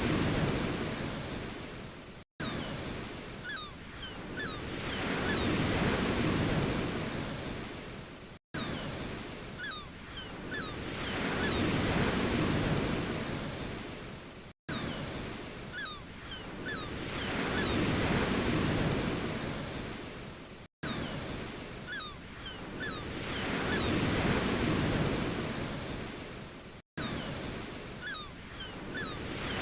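Ocean waves washing in and drawing back, swelling and fading about every six seconds. The sound cuts out for an instant at each repeat.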